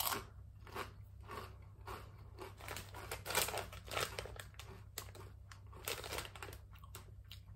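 Mouth chewing a ridged potato chip, with a series of irregular crisp crunches as it is bitten and ground down.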